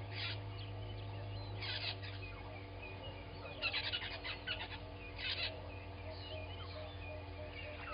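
Several wild birds calling in short clusters of chirps and whistles, over a steady low hum.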